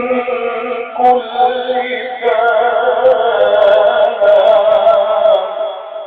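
A man reciting the Quran in the melodic, ornamented tajwid style, drawing out one long phrase with a wavering, trilled pitch that shifts upward about two seconds in and tapers off near the end.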